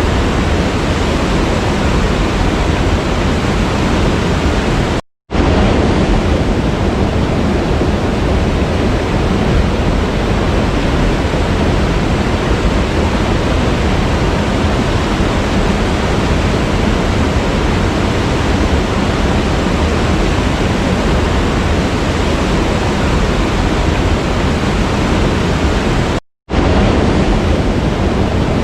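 Waterfall: a steady, loud, even rush of falling water, broken twice by a split-second drop to silence, about five seconds in and again near the end.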